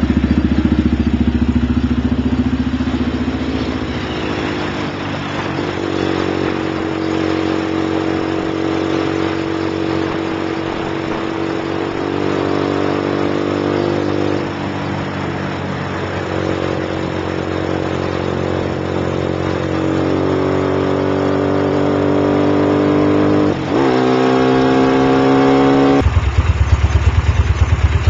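Lifan LF200-B single-cylinder motorcycle with an Iridium exhaust, its engine running loud. The pitch rises and holds level in several steps, with a brief dip late on. Near the end it drops abruptly to a low, pulsing exhaust rumble.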